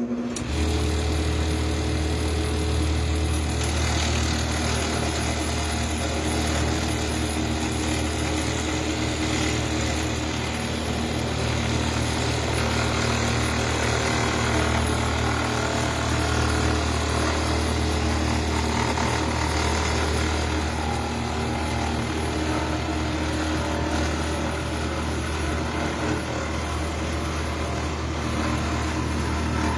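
Wood lathe running steadily with a low motor hum, spinning a turned piece while wax is applied to it.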